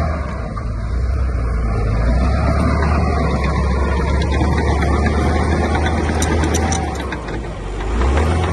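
Heavy diesel construction machinery running under load, a deep steady engine rumble that eases off briefly about half a second in and again near the end.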